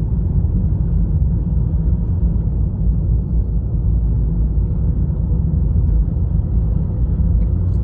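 Steady low rumble of a Honda Fit being driven, heard inside the cabin: road and engine noise with no distinct events.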